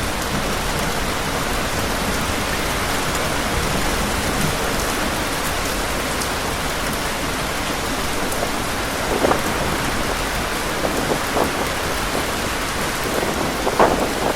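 Heavy rain falling steadily, a dense even hiss. A few brief louder patches come in the second half.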